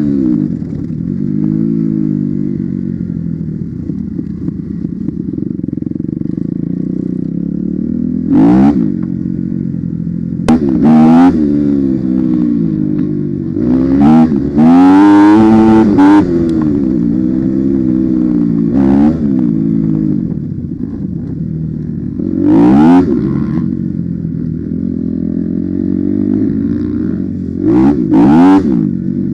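Off-road enduro motorcycle engine running under varying throttle, its pitch rising and falling as it is revved up and eased off, with sharp louder bursts of throttle every few seconds.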